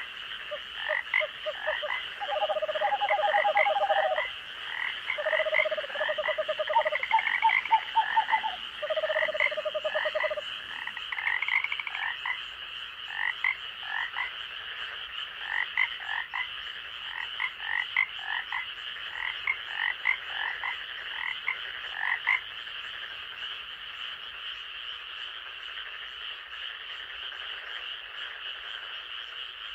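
Several frogs calling in chorus, with short repeated notes and lower pulsing trills. The trills stop about ten seconds in and the other calls die away after about twenty-two seconds. Under them runs a steady high-pitched drone, typical of night insects.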